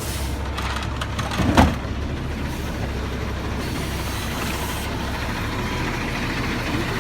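Sterling Condor McNeilus AutoReach garbage truck's engine running steadily, with one brief loud sound about a second and a half in.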